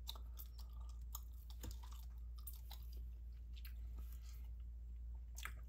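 Gum chewing close to the microphone: irregular wet smacks and clicks of the mouth, over a steady low hum.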